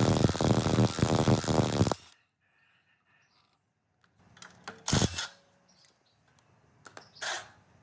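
Old Yanmar generator engine running at a rapid, even beat, cutting off suddenly about two seconds in. After a pause, two sharp knocks follow, the first the louder.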